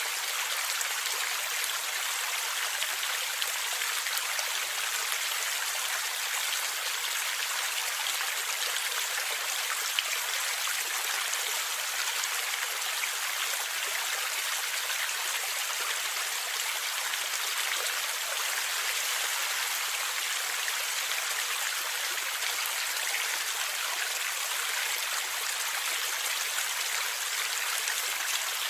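A small stream or river flowing steadily over stones, a continuous splashing rush of water with a few brief sharper drips or splashes.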